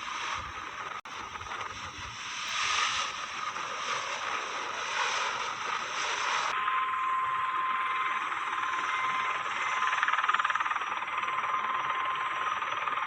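Large military helicopter running, a steady rushing noise with a thin high whine running through it from about six and a half seconds in. The sound shifts abruptly about a second in and again at six and a half seconds.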